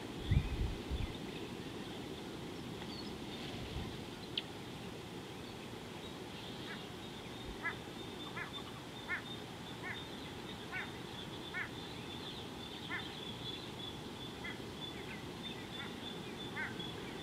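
A bird calling over and over in short calls about one a second, starting about six seconds in, over a faint steady high drone. A few low thuds come near the start.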